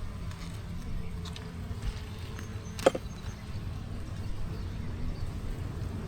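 Low rumble of wind on the microphone, with one sharp click, like a tool or frame knocking on wood, about three seconds in.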